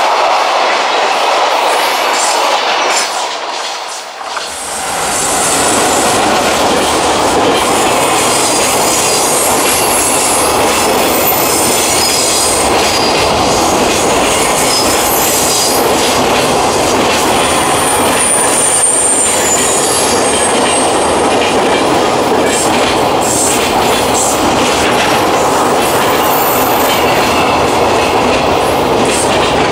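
Container freight wagons rolling past close by: a steady rumble of wheels on rail, with thin high wheel squeal coming and going. The sound dips briefly about four seconds in, then comes back deeper and fuller.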